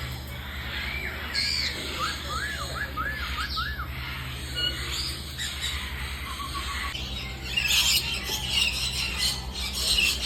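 Birds calling: a quick run of about five rising-and-falling whistled notes a couple of seconds in, then denser chirps and squawks from several birds in the second half, over a steady low hum.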